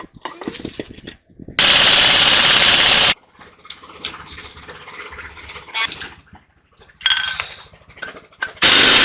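A power tool runs in a burst of about a second and a half, starting and stopping abruptly, then starts again near the end. Between the bursts, metal tools and parts clink and knock.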